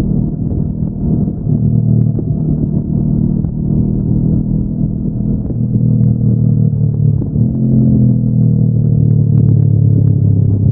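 Honda NX500's parallel-twin engine running under way through its stock exhaust, a steady low engine note. About seven seconds in, the revs jump up, then slowly fall away.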